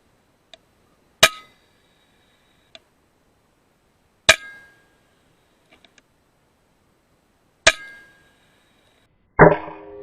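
Three sharp air rifle shots from a .22 PCP FX Impact M3, about three seconds apart, each followed by a brief metallic ring, with small clicks between them. Near the end comes a louder metallic clang that rings on.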